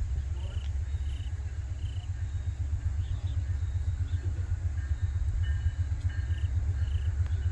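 Low, steady rumble of a freight train, with a faint high chirp repeating about every two-thirds of a second.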